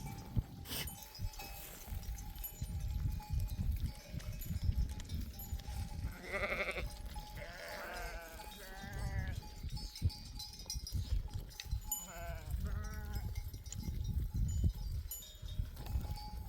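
Sheep bleating, with several quavering bleats about six to nine seconds in and two more around twelve seconds, while the flock's bells clink, over a low rumble.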